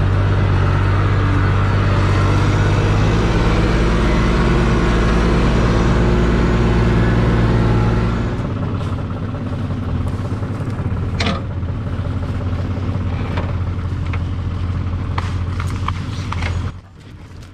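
Tractor engine running hard and steadily, then settling to a lower, quieter run about halfway through with a few metallic clanks, before the sound drops away abruptly near the end.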